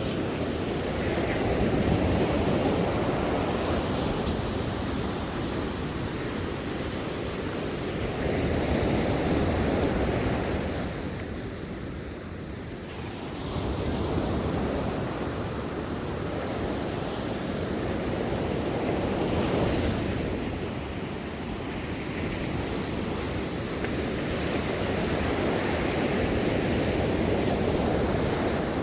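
Ocean waves breaking and washing on a beach. The surf swells and ebbs in a slow rhythm, one wave about every five to six seconds.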